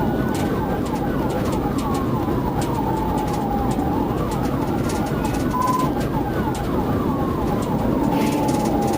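Police car siren in wail mode, its pitch rising and falling slowly about every four to five seconds, over steady engine and road noise.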